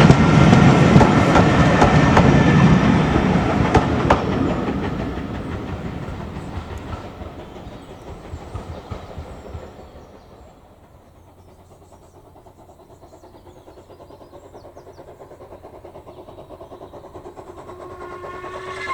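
Steam train passing by, its rumble and clickety-clack of wheels fading into the distance over about ten seconds. Faint ticking follows, and near the end the level rises again with a couple of steady tones.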